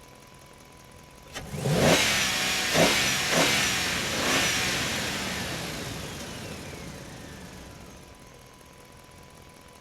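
A click, then a revving engine sound with four rising revs about a second apart. It fades out slowly over several seconds, as from a toy fire truck's sound effect.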